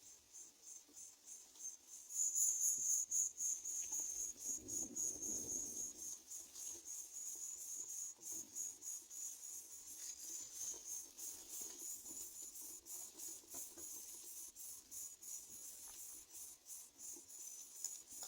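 Insect chirping: a high, pulsing trill repeating evenly, which grows much louder about two seconds in and carries on through the rest.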